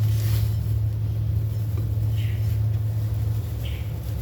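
A steady low hum runs throughout, with two faint brief handling noises about two and three and a half seconds in, as a small oil seal is pressed by hand into a distributor housing.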